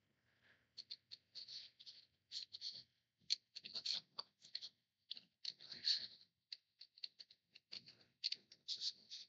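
Scissors snipping through paper in many short, irregular cuts.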